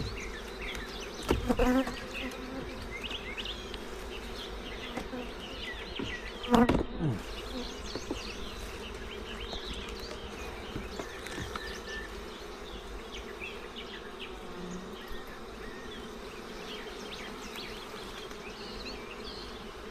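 Honey bees buzzing steadily around an opened hive, with two brief louder swells, about a second and a half in and again around seven seconds in.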